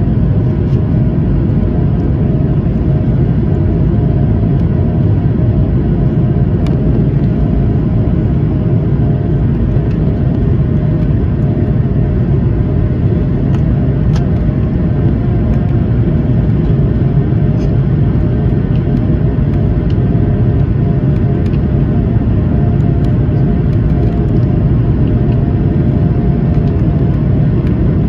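Engine and airflow noise of an Airbus A220 heard from inside the cabin during takeoff. A loud, steady rumble with a faint, even humming tone over it.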